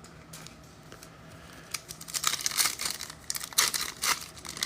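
Foil wrapper of a trading-card pack being torn open and crinkled in the hands, a few light ticks first, then dense crackling from about two seconds in.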